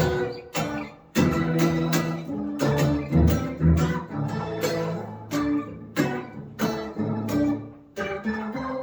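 Electric guitar played through a Boss SY-200 guitar synthesizer pedal on its 'Bubble' preset: a melodic line of sharply picked synth notes, several a second, over lower sustained notes.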